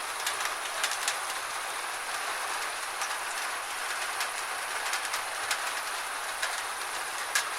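Gentle steady rain, a soft even hiss with individual drops ticking sharply at irregular moments; one louder drip near the end.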